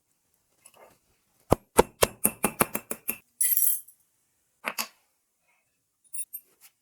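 Small metal parts clinking and tapping: a quick run of about eight sharp clicks, then a short hiss, then a few more single clicks near the end.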